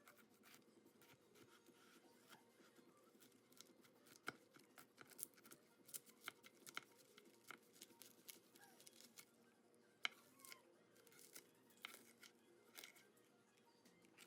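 Knife cutting through a pineapple, a scatter of faint, irregular crisp cutting and tearing strokes through the fibrous fruit.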